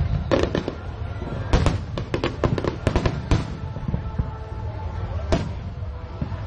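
Fireworks bursting: a rapid string of sharp bangs through the first three and a half seconds, then a single bang a little after five seconds, over a steady low rumble.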